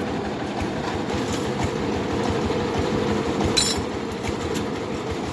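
Rice milling machine running steadily under load, a dense fast rattle over a steady hum, as it processes half-dry paddy. A short sharp clink sounds a little past halfway.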